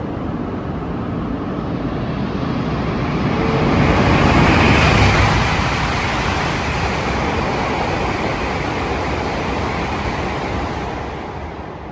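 A train passing by: a broad rushing noise swells to its loudest about four to five seconds in, then slowly fades away.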